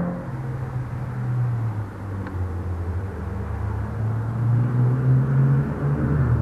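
A car engine running at fairly low revs. Its pitch settles low early on, then climbs slowly over a few seconds, as when pulling away out of a slow corner.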